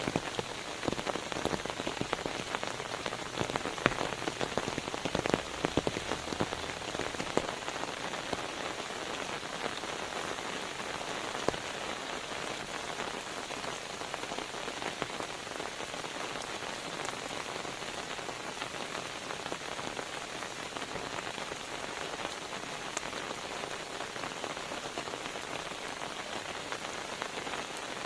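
Steady rain falling, with scattered sharper drop ticks that are more frequent in the first several seconds.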